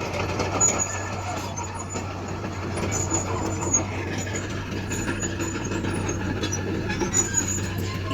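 Heavy diesel earthmoving machinery running steadily: a low engine drone with scattered short, high squeaks and clicks.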